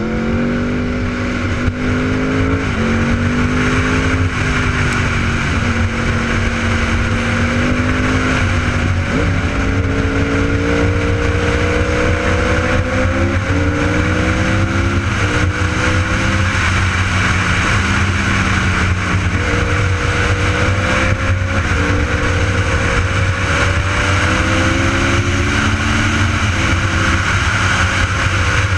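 Sport motorcycle engine pulling hard through the gears. Its pitch climbs and drops back at each upshift, about every two to four seconds, over steady wind and road noise.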